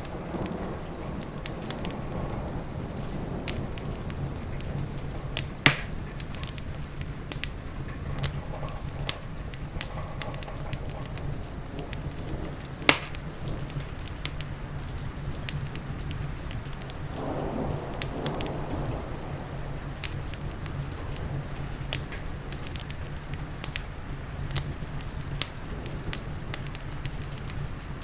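Wood fire crackling with scattered sharp pops, two of them louder snaps, over a steady bed of rain.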